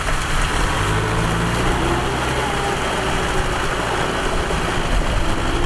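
Kubota M6040SU tractor's diesel engine running steadily, with a low engine tone that is strongest from about a second in to about four seconds.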